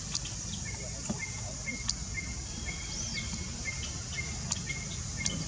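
Outdoor forest ambience: a steady high-pitched insect drone, with a short note repeated about twice a second, one rising-and-falling whistle near the middle, and a few sharp clicks.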